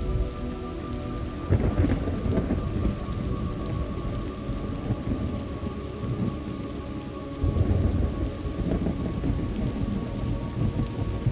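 Thunderstorm ambience: steady rain with rolling thunder, one roll coming in about a second and a half in and a louder one about two thirds of the way through.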